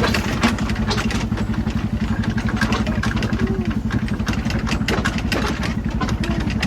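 Engine running steadily with a fast, even pulse, with sharp rattling clicks over it.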